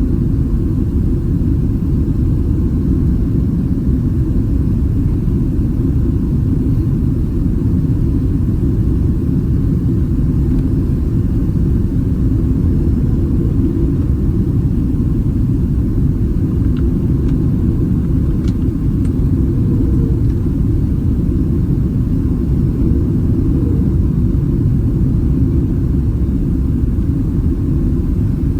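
Steady cabin rumble inside a Boeing 767-300ER airliner in flight: engine and airflow noise heard from an economy seat, even and unbroken, with a few faint ticks a little past halfway.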